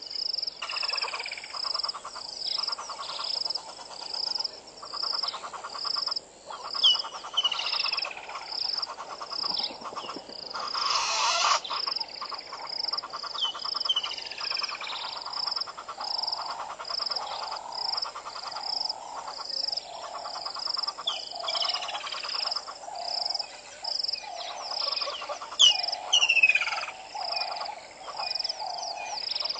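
Outdoor chorus of frogs, insects and birds. A high note repeats about twice a second throughout over a fast buzzing trill, with descending whistled bird calls every few seconds, and a short burst of noise about eleven seconds in.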